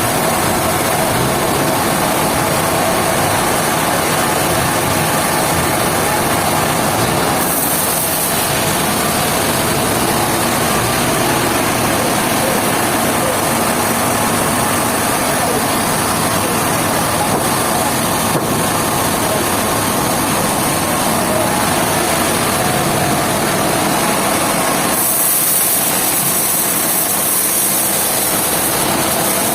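Sawmill machinery running steadily, with a brighter, louder hiss briefly about eight seconds in and again near the end.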